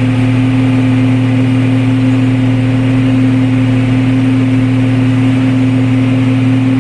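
Motor vehicle engine running with a steady drone at an unchanging pitch.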